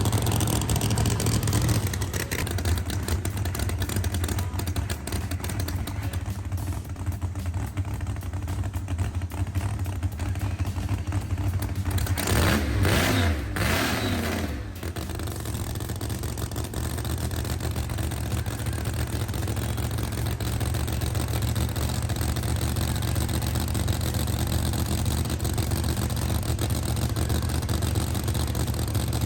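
Drag racing car engines: a steady low engine rumble, with a car passing close about twelve seconds in, its engine note dropping as it goes by.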